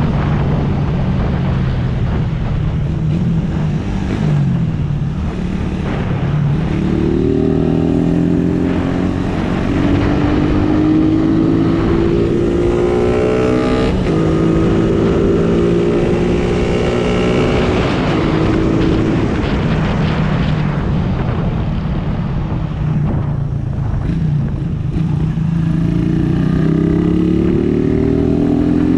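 Suzuki Raider R150 motorcycle's 150 cc single-cylinder engine accelerating up through the gears, its pitch climbing in several steps between shifts, then dropping off and climbing again near the end. A steady rush of wind and road noise runs underneath.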